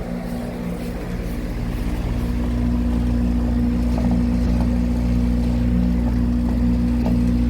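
A 2014 Daikin DX16SA 4-ton central air conditioner's outdoor unit running steadily: a Copeland scroll compressor under a sound blanket and a Broad-Ocean condenser fan motor give a steady hum with a strong low tone under the fan's whoosh, growing a little louder over the first few seconds. The unit is running normally and sounds pretty nice.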